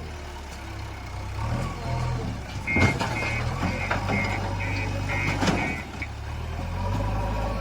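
Heavy diesel engine running steadily, with a vehicle's reverse alarm beeping about twice a second for a few seconds in the middle. Two sharp clanks sound among the beeps.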